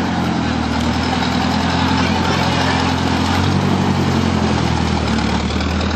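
Engine running at a steady idle, a low even hum that deepens slightly about half a second in.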